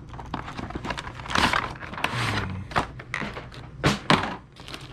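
Model train boxes being handled: cardboard rustling and scraping, with several knocks as they are set down and moved.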